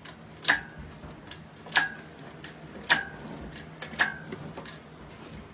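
Lifting gear being worked to hoist an engine out of a car: four sharp metallic clicks, each with a brief ring, evenly spaced about a second apart, as the hoist is jacked up stroke by stroke.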